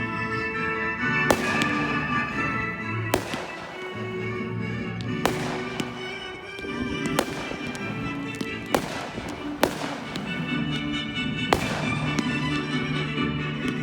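Fireworks going off: about eight sharp bangs spaced one to two seconds apart, each trailing off briefly, over steady background music.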